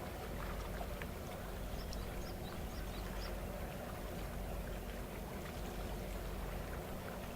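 Steady low drone of a vessel's engine running on the water, with several even tones and no change in level.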